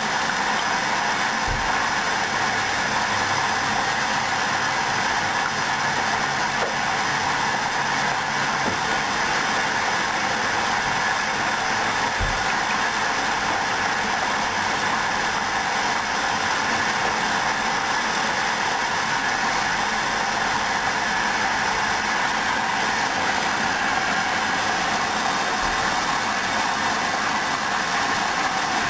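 Hoover front-loading washing machine running steadily mid-cycle, with a few faint low thumps.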